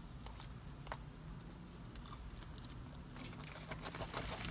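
Faint chewing and eating sounds, with a few soft clicks and rustles from plastic takeout containers, over a low steady hum inside a car.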